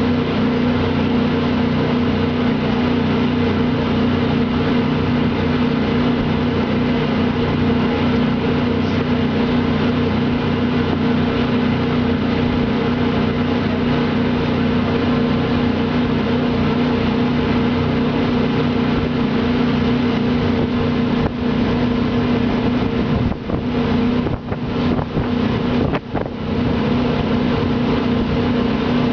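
Jet boat engine running at a steady speed, a loud, even drone with a few brief dips in level about three-quarters of the way through.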